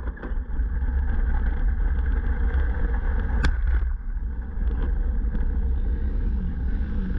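Flat-track racing motorcycle's engine running at low speed as the bike rolls slowly and slows down. A single sharp click about three and a half seconds in.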